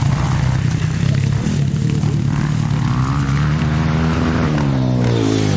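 Motorcycle engine running, with a second engine note rising and falling in pitch over the second half.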